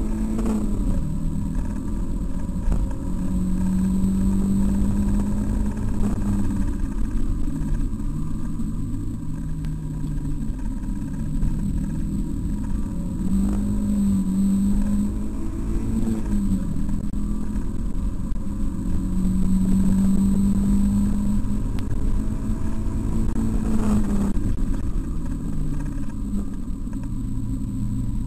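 Mazda MX-5's four-cylinder engine heard from inside the cabin at speed, its note slowly climbing under acceleration and dropping at each gear change, several times over, over a steady rumble of road and wind noise.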